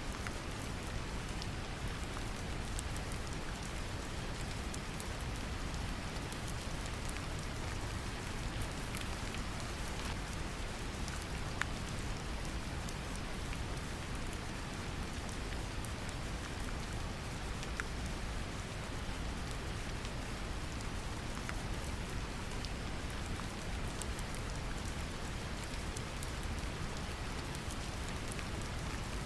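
Steady brown noise, a deep even rushing, mixed with gentle rain whose drops patter as scattered small ticks.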